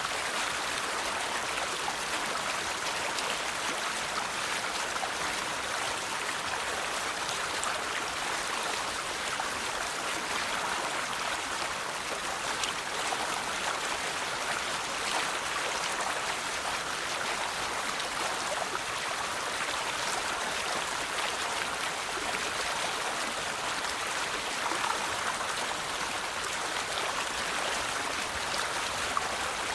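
River water flowing over stones, a steady rushing and babbling with small splashes.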